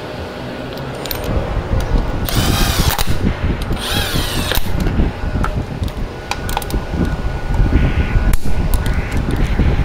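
A hand-held power tool runs in two short bursts about a second apart, over a steady low rumble.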